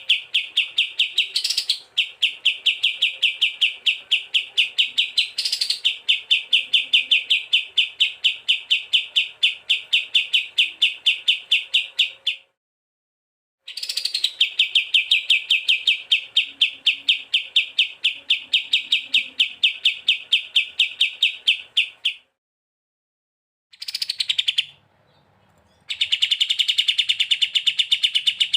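Recorded songbird song: a rapid, steady string of repeated chirps, about five a second, with an occasional higher rising note. It comes in long runs that cut off abruptly into short silent gaps, as in an edited loop.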